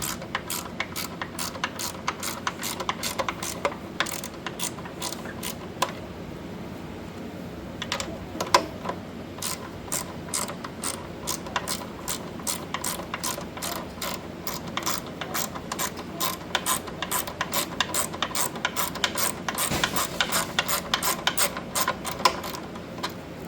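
Hand socket wrench ratcheting on the 7/16 bolts, a long run of quick, even clicks, with a pause of about two seconds a quarter of the way through before the clicking resumes.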